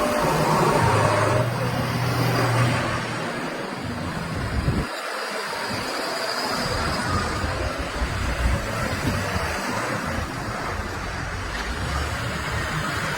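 Heavy diesel machinery running, a continuous engine rumble with traffic-like noise; the low engine note drops out briefly about five seconds in.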